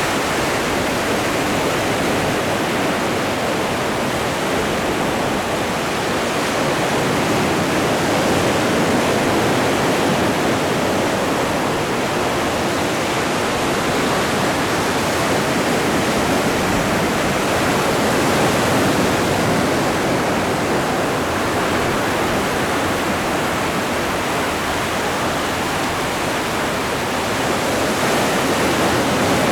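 Atlantic Ocean surf: a continuous wash of breaking waves that swells and eases slowly, about every ten seconds.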